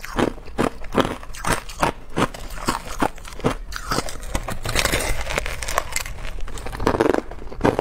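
Hard clear ice being bitten and chewed close to the microphone: a quick run of sharp crunches, two to three a second, thickening into a denser crackling stretch midway.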